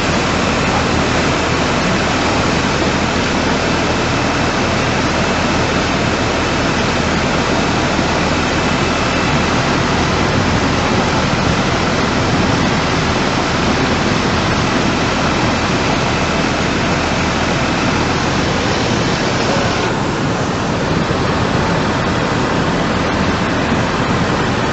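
Rushing floodwater: a loud, steady rush of churning water, with a slight change in tone about twenty seconds in.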